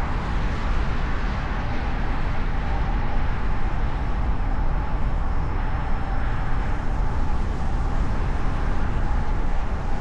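Steady road and engine noise of a car driving, heard from a microphone mounted on the hood, with a deep rumble and a faint steady hum running through it.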